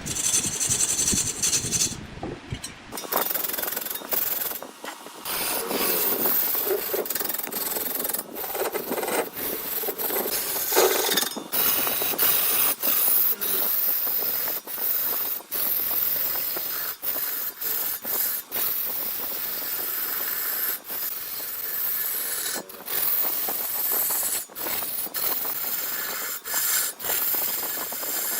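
Wood being worked on a lathe: a steady rasping scrape of a turning tool against the spinning wood, broken by short gaps every second or two.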